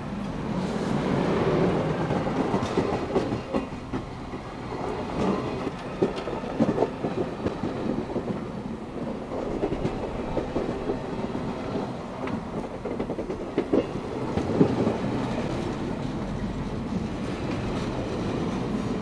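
A train rolling past: a steady rumble of the cars, with irregular clacks as the wheels pass over rail joints.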